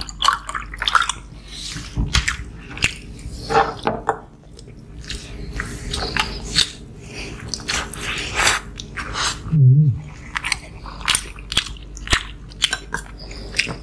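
Close-miked eating sounds of people chewing rice noodles and other food: wet chewing and lip smacks in quick, irregular clicks.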